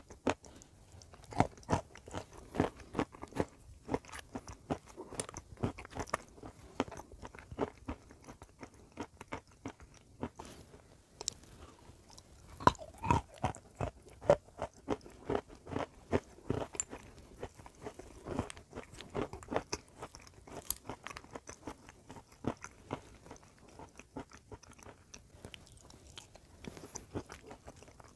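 A person biting and chewing dry, brittle white chunks: a dense run of sharp, crisp crunches, several a second, with short lulls between mouthfuls.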